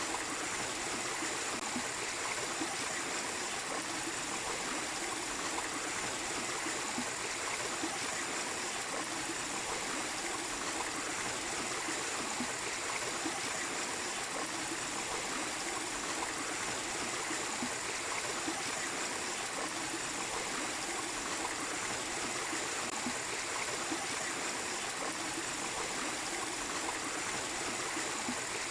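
Small waterfall splashing and a stream running steadily, a constant rushing of water with no breaks.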